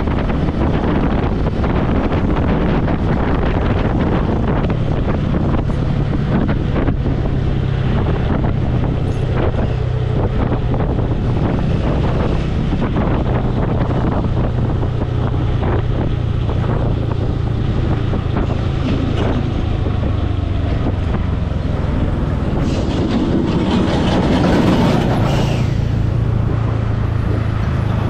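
Motorcycle engine running at a steady cruising speed, with wind buffeting the helmet-mounted microphone. Near the end, passing traffic briefly makes it louder.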